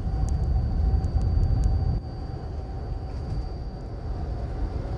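Car cabin noise while driving through snow: a steady low rumble of engine and tyres, easing slightly about two seconds in.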